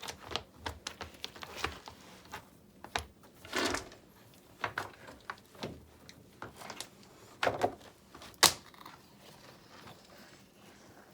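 River rocks being handled and set, giving irregular clicks and knocks with a few short scrapes; the sharpest knock comes about eight and a half seconds in.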